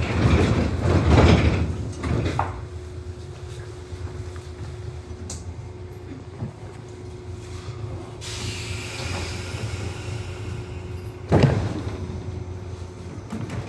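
Nishitetsu 600 series electric train stopped with its sliding doors working: a loud door slam near the start, then a steady hum, a hiss of air starting about eight seconds in, and another thump about eleven seconds in.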